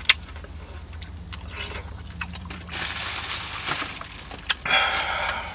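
Eating and handling a takeout seafood platter: a sharp click at the start, scattered light clicks, and two stretches of crunching, rustling noise about three and five seconds in, over a low steady hum.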